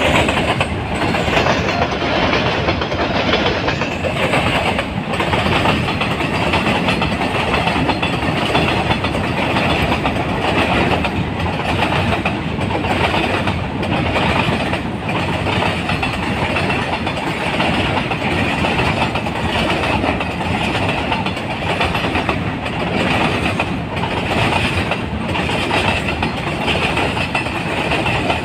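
KTM Komuter electric train running on the rails: a loud, steady rumble with faint, irregular wheel clicks over rail joints.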